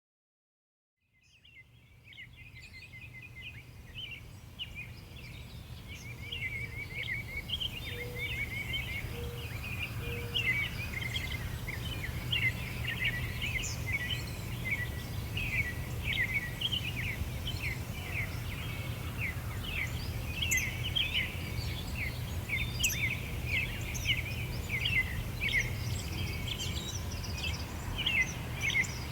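Songbirds singing in a busy chorus of short, quick chirps and trills, over a steady low rumble of background noise. It fades in over the first few seconds.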